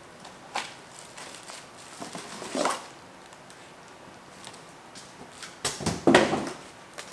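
Handling sounds of unpacking: scattered clicks and short rustles of packaging and parts being moved about, with a louder rattle and rustle about two and a half seconds in and a cluster of louder knocks and rustles around six seconds in.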